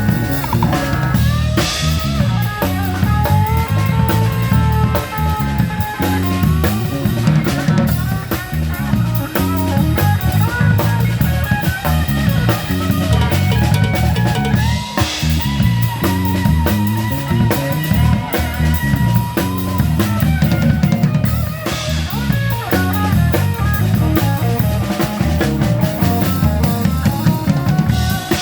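Live band playing an instrumental break: drum kit and bass keep a steady groove while a lead instrument plays melodic lines with some held, wavering notes.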